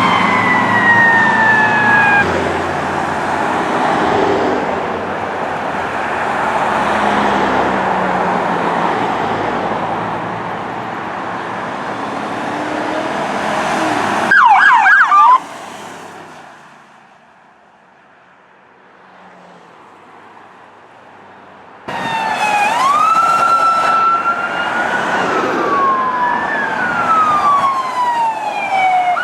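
Emergency sirens on responding fire apparatus: a siren wail falling away, then a long stretch of loud engine and road noise, then a brief rapid yelp. After a quiet gap, another siren starts abruptly, wailing up and then down.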